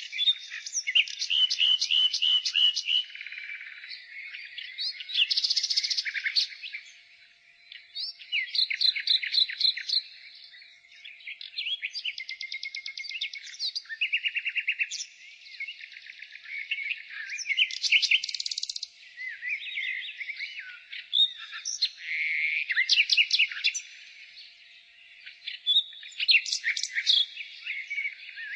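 Nightingale singing: a string of varied phrases a second or two long, each built of rapid repeated notes, fast trills or clear notes, separated by short pauses.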